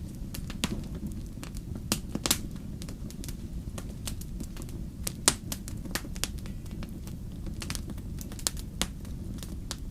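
Wood campfire crackling, with irregular sharp pops and snaps over a steady low rumble. Two pops stand out, about two seconds in and again past the halfway point.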